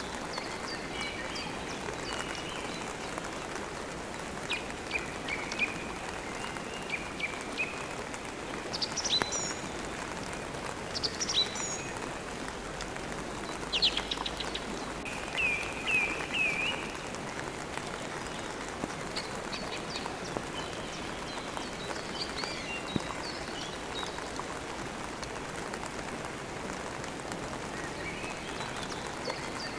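Steady rain hiss, with small birds chirping on and off over it; the chirps are busiest in the middle.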